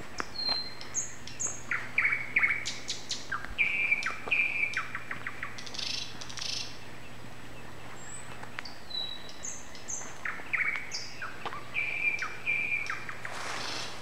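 A songbird singing two song phrases of clear whistled notes, fast trills and short rasping notes. The second phrase starts about eight seconds in and follows much the same pattern as the first. A faint steady low hum lies underneath.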